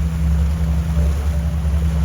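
Boat engine running steadily under way, a continuous low drone, with a faint even hiss above it.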